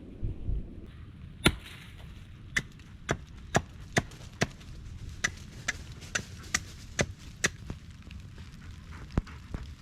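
Wood being chopped: a quick run of sharp strikes, about two a second, then a pause and one last strike near the end.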